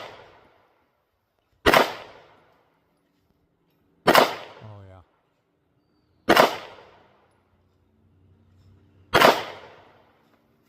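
Canik TTI Combat 9mm pistol fired slowly, four single shots about two to three seconds apart, each a sharp crack with a short fading tail.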